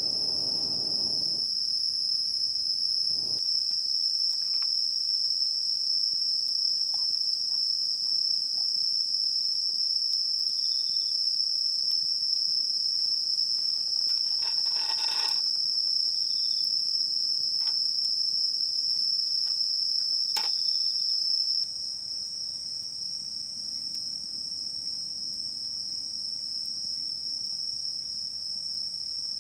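Steady, high-pitched chorus of insects ringing without a break, with a few faint clicks and knocks now and then. The chorus drops a little in level about two-thirds of the way through.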